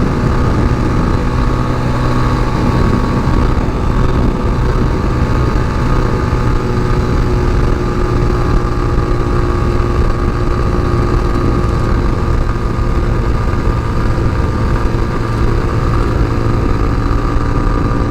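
Tao Tao TBR7 dual-sport motorcycle's single-cylinder engine running at a steady cruise, heard from the rider's seat.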